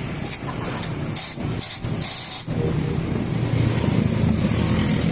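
Suzuki Raider 150 motorcycle engine running. A few short hissing bursts come in the first half, and the engine grows louder and steadier about two and a half seconds in.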